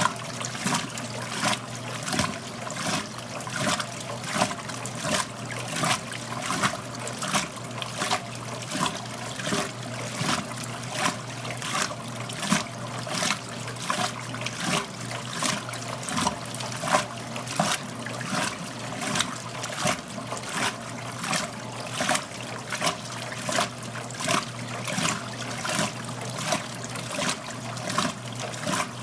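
1969 Westinghouse LAJ 535A3 front-loading washing machine running mid-cycle: water in the drum sloshes and splashes in a steady rhythm, about one and a half to two splashes a second, as the load tumbles, over a low steady motor hum.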